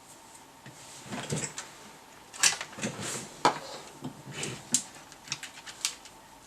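A run of irregular clicks, knocks and rustling, like things being handled on a workbench, with the sharpest knocks about two and a half, three and a half and five seconds in.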